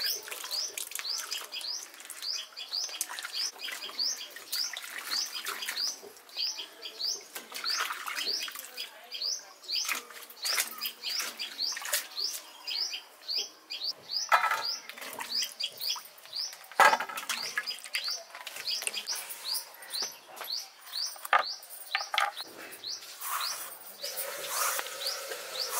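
A small bird chirping over and over, about two short high chirps a second. Under it, vegetables are swished and rinsed by hand in a steel bowl of water, with a few louder splashes and knocks.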